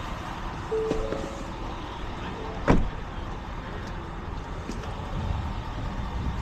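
Steady running noise of a vehicle, with two short beeps about a second in and one sharp knock a little under three seconds in.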